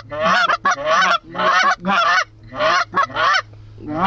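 Goose honking: a run of about seven loud honks and clucks, one every half second or so, over a low steady hum.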